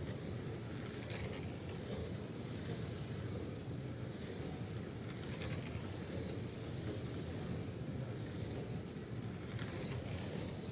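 RC race trucks lapping an oval track. Their motors give a high whine that rises and falls in pitch each time the pack passes, about every two seconds, over a steady low rumble.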